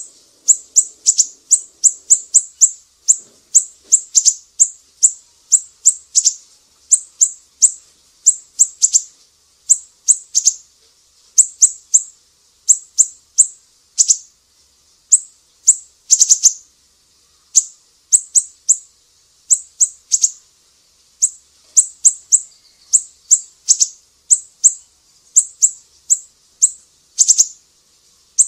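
Small bird chirping: sharp, high chirps in quick groups of two to four, repeating about once a second, as in a masteran song-training recording.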